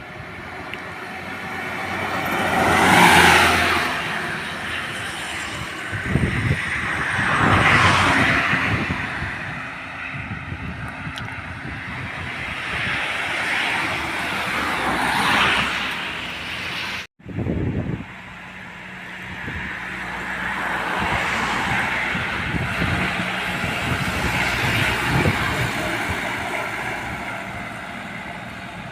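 Heavy trucks passing one after another on a road, each engine and tyre noise swelling up and fading away, five or so in all. The sound drops out abruptly for a moment a little past halfway.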